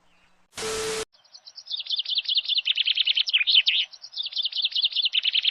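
A small bird sings a long, rapid run of high chirping notes in two phrases, with a short break in between. Just before the song there is a half-second burst of noise with a steady hum.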